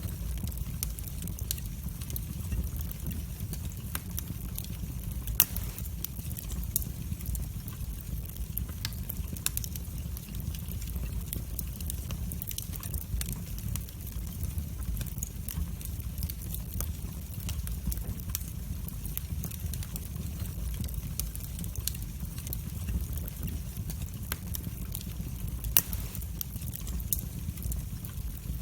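Fire burning in a fireplace: a steady low rumble with frequent sharp crackles and pops, two of them louder, about five seconds in and near the end.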